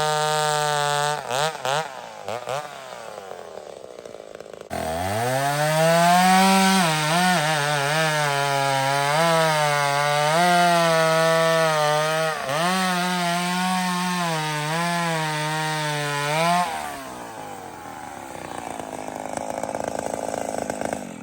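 A 50-year-old two-stroke chainsaw at full throttle eases off about a second in. It revs up sharply again about five seconds in and cuts into a big tree, its pitch dipping and recovering under the load. It throttles down about four seconds before the end.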